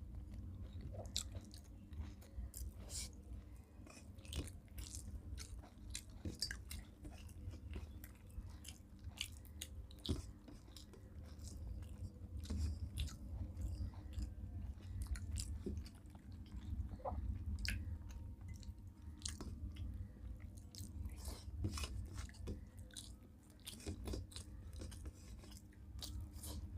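Close-up chewing and eating sounds from people eating rice and curry: many small wet clicks and smacks of the mouth, irregular throughout, over a steady low hum.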